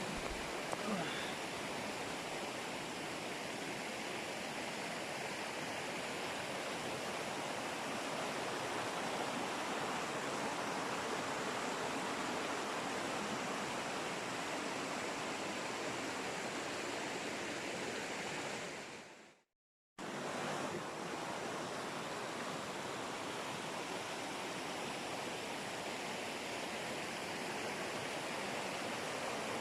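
Steady rush of flowing water from a mountain river. It fades out about nineteen seconds in and cuts back in abruptly a second later.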